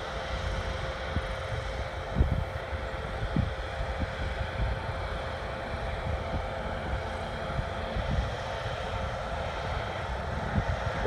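Farm harvesting machinery running steadily, a constant drone with a faint steady whine. Low thumps of wind buffet the microphone, the clearest about two seconds in.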